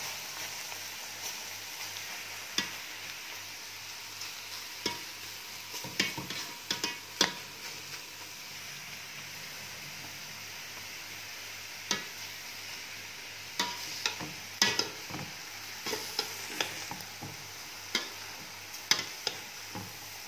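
Grated pumpkin frying in hot ghee in a metal pot, with a steady sizzle. A slotted metal spoon stirs it, and sharp scrapes and knocks against the pot come now and then, in clusters.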